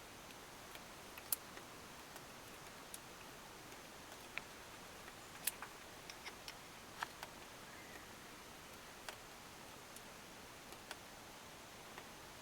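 Faint, irregular small clicks and taps of hand work on hydraulic cylinder seals being lubed and fitted, over a steady low hiss.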